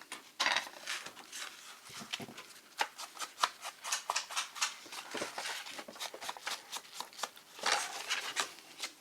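Paper edges being inked by hand: quick, irregular scuffing strokes of an ink applicator against paper, with a few light clicks among them.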